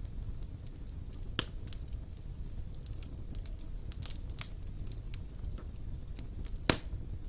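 Wood fire burning in a fireplace: a steady low rumble of the flames with scattered crackles, one sharp pop about a second and a half in and a louder one near the end.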